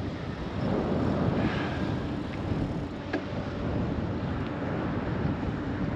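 Steady rush of wind and road noise from riding a bicycle, picked up by a GoPro microphone, with a faint click about three seconds in.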